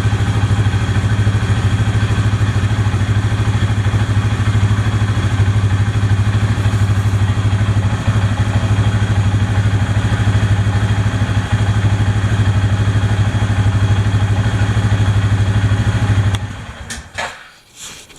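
Kymco MXU 450 ATV's single-cylinder four-stroke engine idling steadily on a test run right after an oil change with fresh oil. It shuts off about 16 seconds in, followed by a few short clicks.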